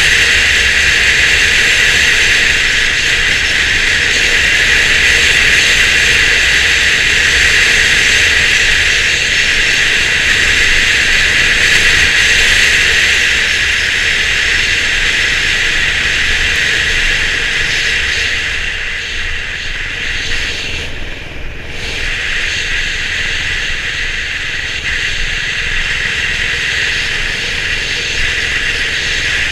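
Steady wind rush and engine noise of a Honda CB350 RS single-cylinder motorcycle under way, easing off briefly about twenty seconds in before picking up again.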